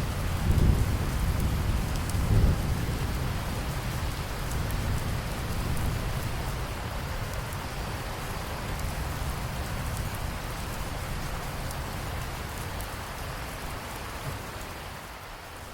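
Steady rain falling, with a low rumble of thunder in the first few seconds that swells twice and then fades away.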